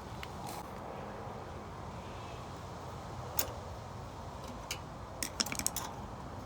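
Light clicks and rattles of small mower carburetor parts and hand tools being fitted during reassembly: one click about halfway through, then a quick cluster of clicks near the end, over steady background noise.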